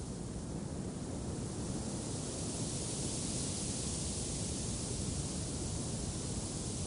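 Wind blowing, a steady rushing noise that swells slightly in its higher hiss partway through.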